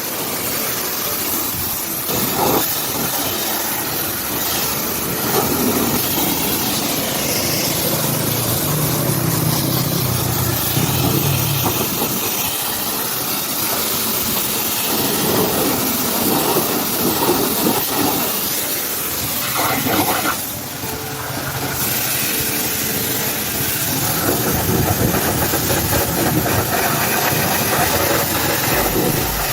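Pressure washer spraying water, a steady hiss, with an engine running underneath.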